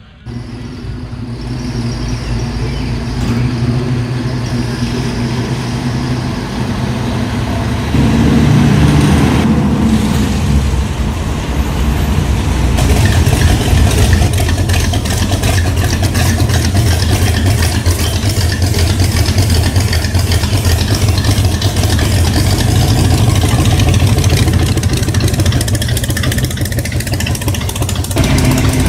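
A car engine running with a loud, steady low rumble that steps up in loudness about eight seconds in.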